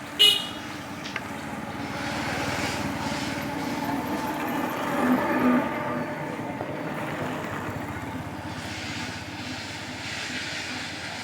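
Engine of heavy road-construction machinery running steadily, with a sharp metallic clank right at the start and a brief rise in level about five seconds in.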